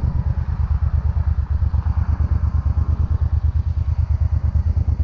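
Motorcycle engine running steadily, with a rapid low pulsing.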